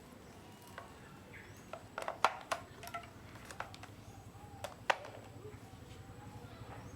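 Scattered light clicks and knocks of objects being handled, loudest about two seconds and five seconds in, over a faint low hum.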